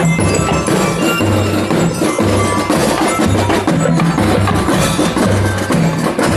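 Marching band music of bell lyres and percussion playing continuously, with low held notes shifting about once a second.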